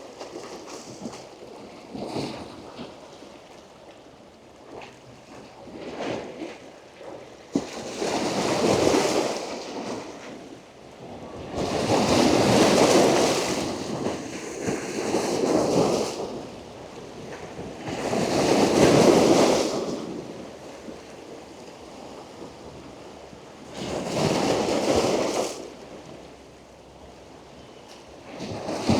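Ocean waves breaking on rocks close by, about five crashes a few seconds apart, each a surge of noise lasting a second or two, with a quieter wash of water between them.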